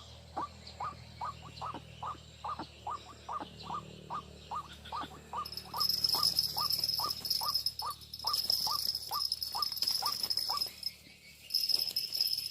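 White-breasted waterhen (ruak-ruak) calling, a long, even series of short repeated notes, about two to three a second. A high, steady insect drone sets in about halfway through and drops out briefly near the end.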